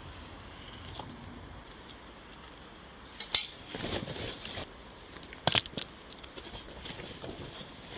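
Camp tableware and cooking utensils being handled: a few sharp clinks and knocks, the loudest about three seconds in, followed by a second of rustling, and another knock about five and a half seconds in.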